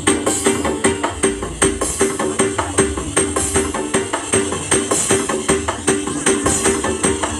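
Loud music with a fast, steady percussive beat and strong bass, blasted from a giant 'sound horeg' parade sound system.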